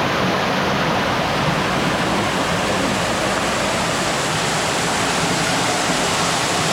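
Waterfall rushing, a steady, loud hiss of falling water.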